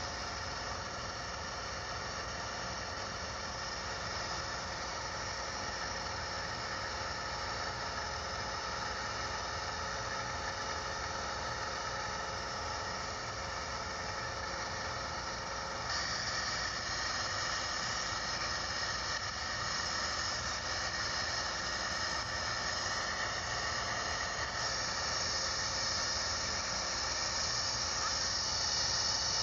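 Light aircraft's piston engine and propeller droning steadily, heard inside the cabin. About halfway through the note gets louder and brighter, and it rises again near the end.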